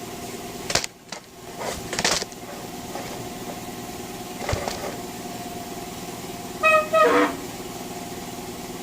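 A few sharp metal knocks from handling tools and parts of a small-block Chevy 350 under teardown, over a steady hum. About seven seconds in comes the loudest sound, a short two-part honk-like squeal whose second part falls in pitch.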